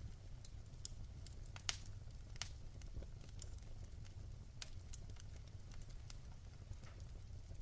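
Wood fire in a fireplace crackling, with irregular sharp pops and snaps over a low, steady rumble; the loudest pop comes a little under two seconds in.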